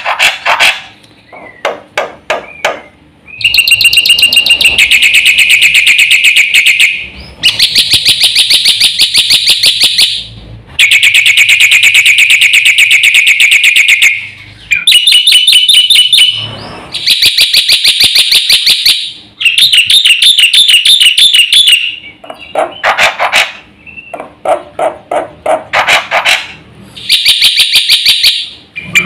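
Black-winged myna (jalak putih) singing in long, loud bursts of rapidly repeated shrill notes, each burst lasting a few seconds, broken by short pauses and a few lower, harsher calls.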